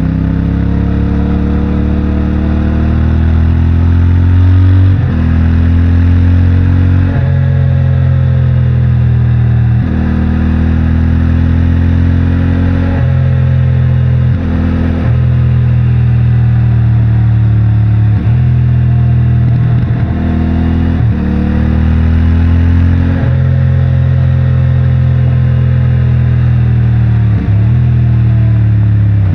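CFMOTO 450MT's stock-exhaust parallel-twin engine pulling hard through the gears: the revs climb, then dip sharply at each shift or throttle lift, about ten times, every two to three seconds.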